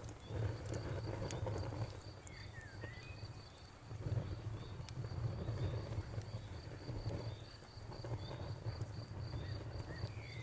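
Campfire burning with a low rumble and scattered sharp crackles and pops, under crickets chirping steadily several times a second. A bird gives a few short calls about two to three seconds in.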